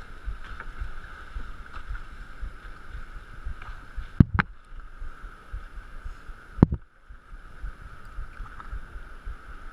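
Wind and choppy water around a small fishing boat in rough sea, a low rumble with a steady whine above it. Sharp knocks come twice a little before halfway and once about two-thirds through.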